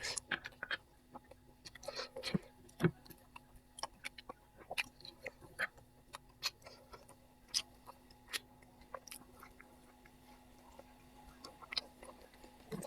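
Close-miked mouth sounds of a person eating: scattered wet clicks and smacks of chewing, a few louder ones in the first three seconds, over a faint steady hum.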